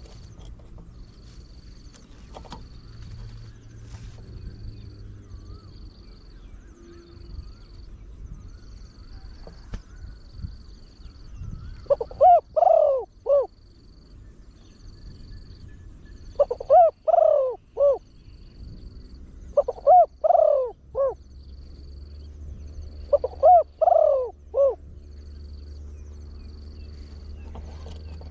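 Spotted dove cooing: four phrases of three or four deep coos each, starting about twelve seconds in and recurring every three to four seconds. A faint high pulse repeats about once a second throughout.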